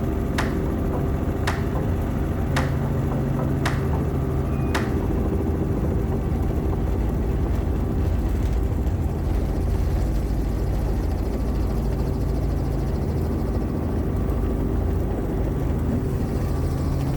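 Helicopter running with a steady drone. A row of sharp clicks about a second apart sounds over it in the first five seconds.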